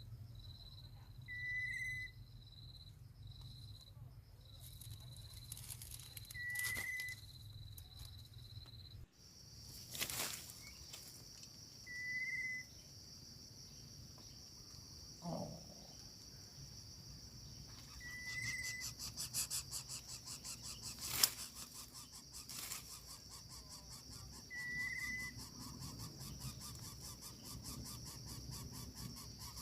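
Outdoor insect chorus with a steady high trill, over which a short, even bird note repeats about every six seconds. There are a few sharp knocks, the loudest a little after the middle.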